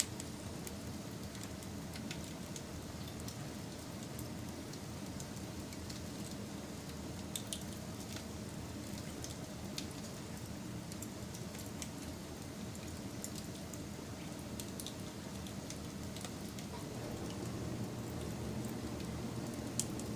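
Wood fire burning with a steady low rush and scattered sharp crackles and pops. A few louder pops come about 7 and 10 seconds in and near the end.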